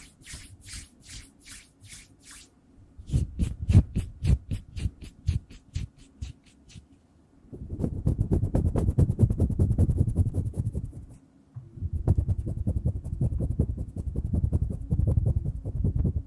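Hands rubbed together close to the microphone: separate swishing strokes about five a second, then from about halfway through a fast, continuous rubbing that stops briefly and starts again.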